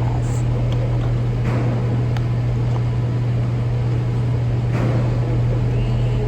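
A steady low mechanical hum at one unchanging pitch, with a few faint muffled knocks.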